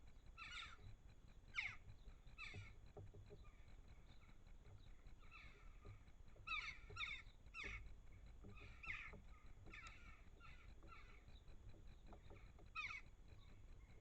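Faint garden birds calling: about a dozen short, harsh calls at irregular intervals.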